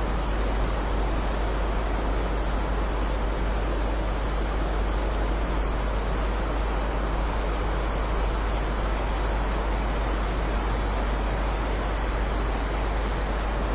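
Heavy rain falling steadily, an even hiss with no single drops standing out, over a strong, deep rumble.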